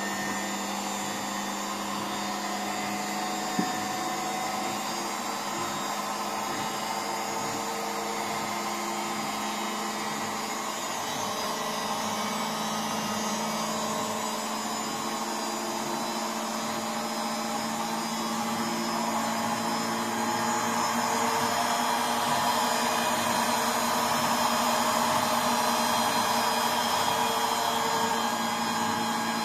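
Indesit NSL 705 washing machine on its spin cycle, drum and motor running with a steady hum that grows louder from about 18 seconds in as the spin speeds up; it has freshly replaced drum bearings and seal. A single short click about 3.5 seconds in.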